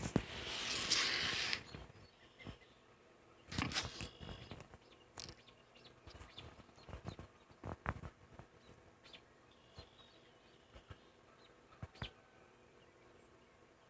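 Faint distant birds chirping, with a brief rustle at the start and a few scattered clicks and knocks from handling.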